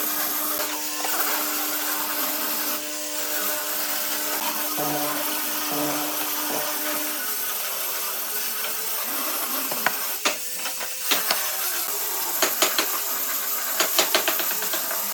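A woodworking power tool's motor running steadily, its pitch dipping and rising now and then. In the last few seconds there is a run of sharp knocks and clicks on wood.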